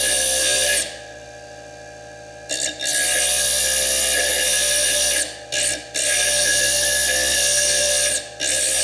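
Foredom bench lathe spinning a small slitting disc that grinds into fire agate: a steady high whine with a hissing cutting noise. The cutting noise breaks off for about a second and a half soon after the start, then briefly three more times.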